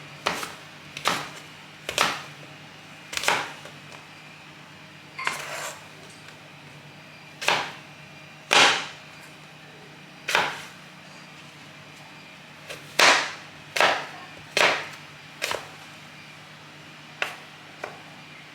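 Spice jars and their lids being handled and set down on a hard surface: about fifteen sharp clicks and knocks at irregular intervals, over a low steady hum.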